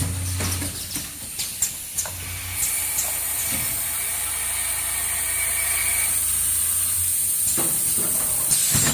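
Cup-shape mask making machine running: a few sharp mechanical clicks, then a steady high-pitched hiss lasting about six seconds over a low electrical hum.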